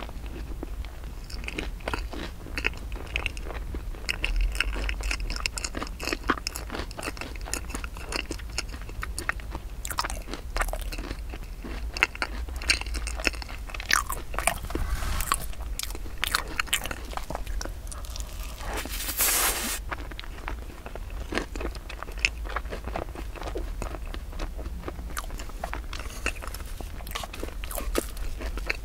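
Close-miked chewing and mouth sounds, with irregular wet clicks and smacks, from eating a soft black sesame rice-flour cake with a cream filling.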